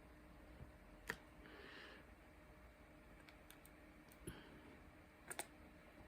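Faint clicks and taps of diamond-painting drills being picked up with a wax drill pen and pressed onto the canvas: a sharp click about a second in, a quick pair of clicks just past five seconds, and a few softer ticks between.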